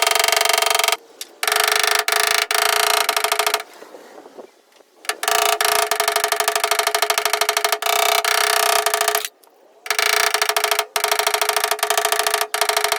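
A power tool running in several bursts of a few seconds each, a steady buzz with a rapid, even pulse, stopping briefly between bursts.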